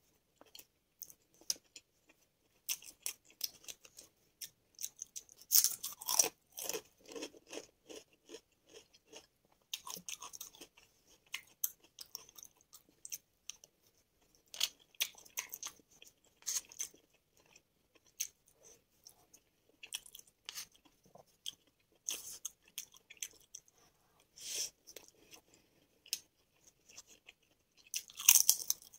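Close-miked chewing of spoonfuls of mushroom biryani: wet mouth clicks and irregular crunching in uneven clusters. Near the end comes the loudest crunch, as a ridged potato chip is bitten.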